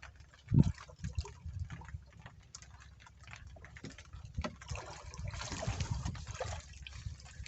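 Water sloshing and trickling, with scattered clicks and knocks and a loud low thump about half a second in; the water noise swells up about five seconds in.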